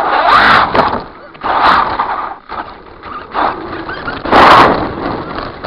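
Redcat Volcano RC truck's brushless motor on a 3S lipo whining up and down in bursts of throttle, with the crunch and hiss of tyres on dirt, heard close from the camcorder mounted on the truck. The loudest burst comes about four and a half seconds in.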